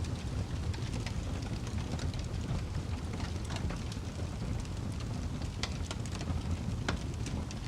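Wood fire crackling: a steady low rumble of flames with small, sharp pops and snaps at irregular moments.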